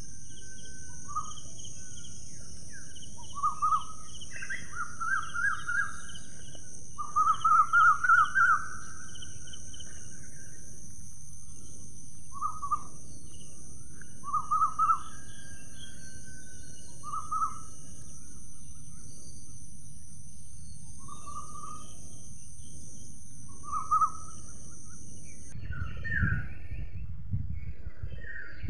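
Songbirds chirping in short, repeated phrases, the loudest a quick run of notes about a quarter of the way in, over a steady high-pitched insect drone that stops abruptly near the end. A low rumble follows in the last few seconds.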